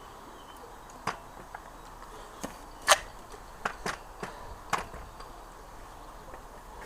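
A series of sharp clicks and knocks from motorcycle fork parts being handled as a rubber fork gaiter is worked back off the fork leg after a test fit. The loudest knock comes about three seconds in.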